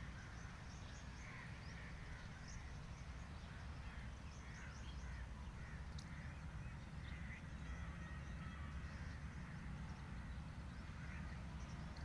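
Birds calling outdoors in short, scattered chirps and calls over a steady low rumble.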